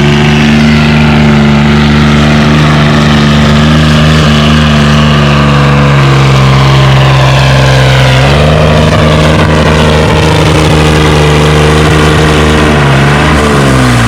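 460 Red Diamond tractor's engine working hard under load while pulling the weight-transfer sled, holding a steady pitch, stepping up in pitch about eight seconds in, then dropping in pitch near the end as the pull comes to a stop.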